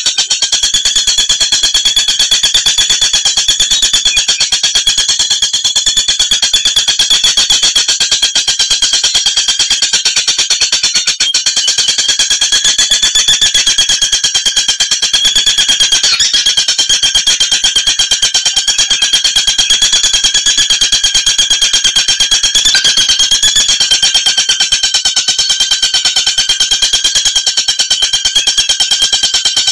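Oriental magpie-robin (kacer) calling in a continuous, very rapid trill that holds a steady pitch without a break.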